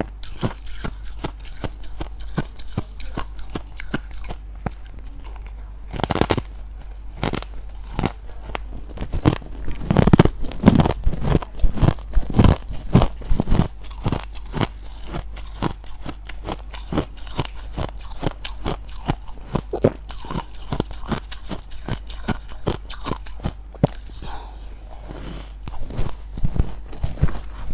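Freezer frost being bitten and chewed, a long run of sharp crunches, loudest and thickest a third of the way in, over a steady low hum.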